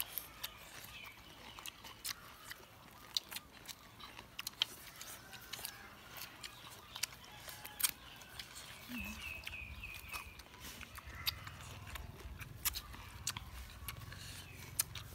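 Several people chewing and smacking their lips while eating papaya salad with crab by hand: irregular sharp wet clicks and smacks, with a low rumble from about nine seconds in.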